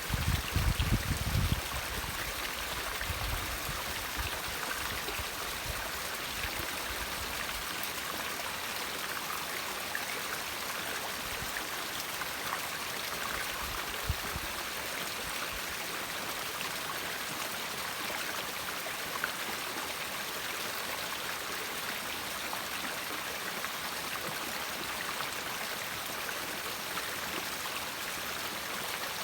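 River water flowing steadily, an even rush of water. A few low thumps come in the first couple of seconds.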